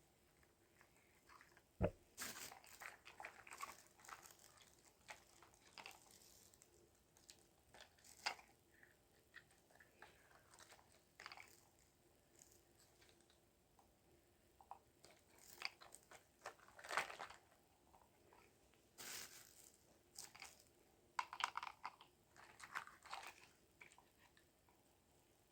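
Faint, irregular handling noises: scattered clicks, taps and crinkly rustles, as of small plastic toys and their packaging being handled, with a sharp knock about two seconds in.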